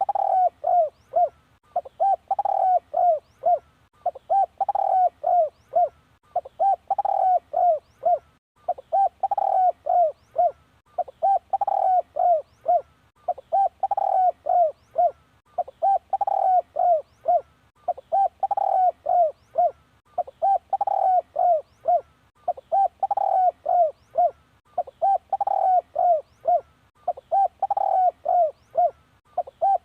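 Spotted dove cooing, repeating its phrase of five or six quick low coos about every two seconds.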